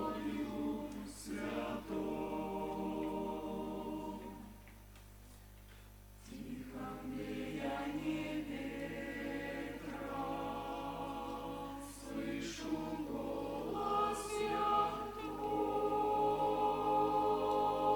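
Church choir singing a hymn in held, sustained chords, breaking off for a short pause about four seconds in and then resuming.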